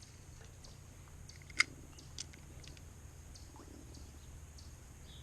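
A faint, steady low hum with a few small, sharp clicks over it, the sharpest about a second and a half in.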